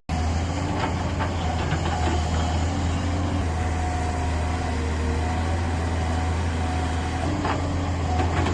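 Heavy construction machine's diesel engine running steadily with a deep rumble. A higher whine comes and goes several times over it, with a few light knocks.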